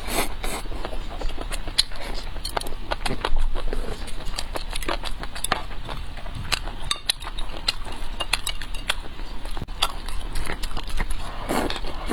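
Close-miked eating: a steady run of rapid, irregular clicks and crunches of chewing and mouth sounds, over a steady low hum.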